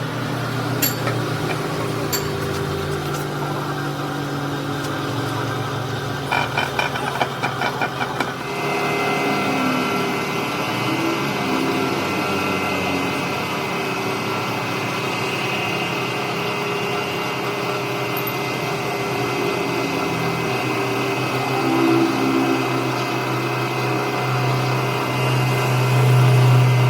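A machine running steadily, with a short spell of rapid clattering about six seconds in, after which a steady whine joins the drone.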